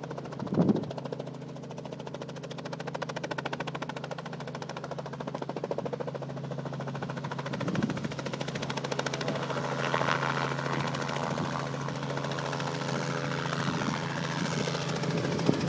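Full-size helicopter's rotor chop and engine, a rapid steady beat over a constant low hum, growing slightly louder as it comes in to land.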